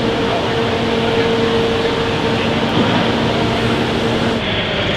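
Loud, steady engine noise with a steady hum that cuts off suddenly about four seconds in.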